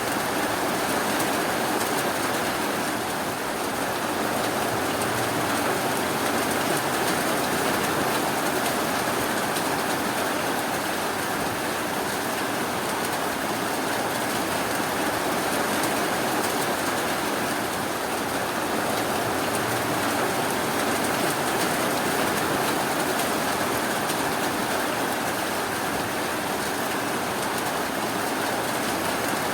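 Steady rain: an even hiss of falling water without breaks or thunder.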